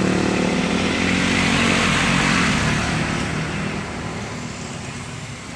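A motor vehicle passing close by, its engine and tyres loud at first, then fading away over the last couple of seconds.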